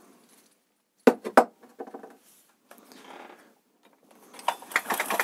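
Chainsaw parts and hand tools being handled during disassembly. Two sharp clicks come about a second in, then scattered fainter clicks, and busier clicking and rattling near the end.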